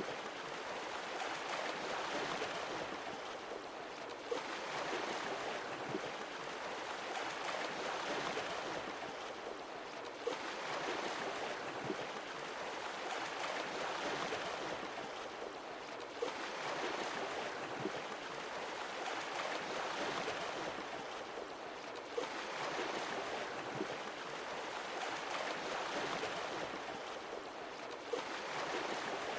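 Sea waves washing in on a shore, the rush of surf swelling and easing in a slow cycle of about six seconds.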